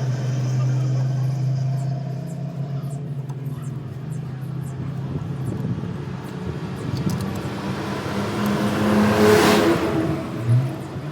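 A motor vehicle engine running, steady at first, then swelling louder about nine seconds in and dropping away again.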